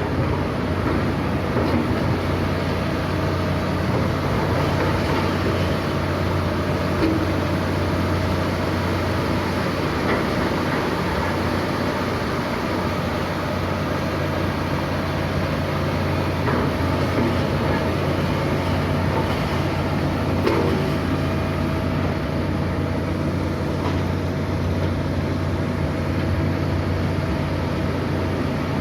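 Heavy diesel machinery running steadily, a low, even engine hum with a faint higher tone above it.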